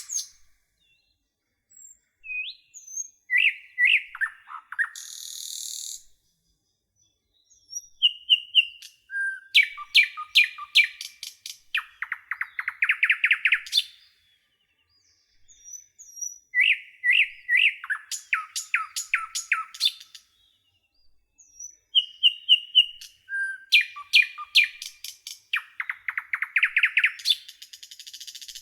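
Common nightingale singing in separate phrases a few seconds long with short pauses between, each mixing whistled notes, fast runs of repeated notes and a dense rising trill. A steady hiss comes in near the end.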